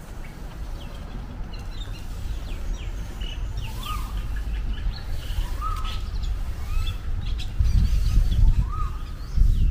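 Birds calling: one repeats a short note that rises and falls, about once a second, over quicker high chirps from other birds. A low rumble runs underneath and grows louder near the end.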